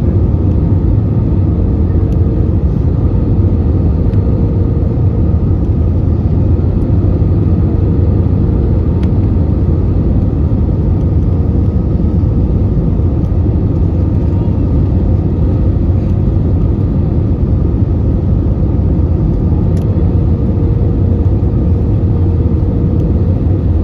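Steady cabin noise of an Airbus A320-214 in flight, heard from inside the passenger cabin: a loud, even rumble of its CFM56 engines and the airflow, with a faint steady hum over it.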